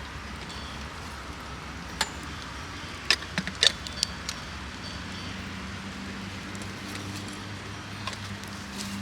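A few sharp clicks and clinks, a quick cluster of them about three to four seconds in, over a steady low background noise.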